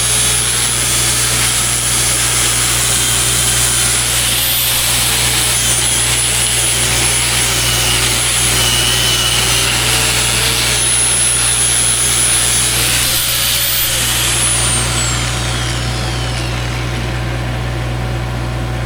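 Angle grinder grinding down a weld on the steel boom, its high whine dipping in pitch several times as it bites under load. About fourteen seconds in it is switched off and winds down with a falling whine. A steady low engine drone runs underneath.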